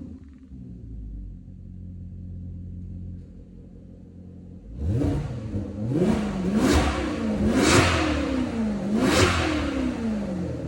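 Maserati Quattroporte Sport GT S V8 engine and exhaust idling steadily, then revved in four quick blips from about five seconds in, each one rising and falling in pitch.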